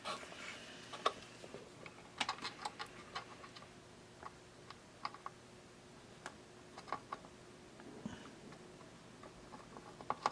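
Faint, scattered light clicks and taps of small tools and wires being handled while soldering leads, at irregular intervals.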